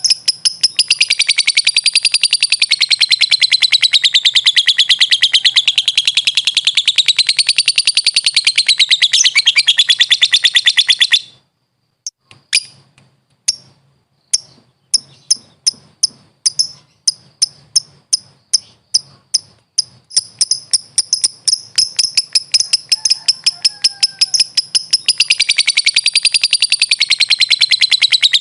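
Lovebird ngekek: a long, fast, unbroken chattering trill with wavering pitch that breaks off about eleven seconds in. After a short pause, single sharp chirps come back, speeding up until the continuous trill starts again and runs on.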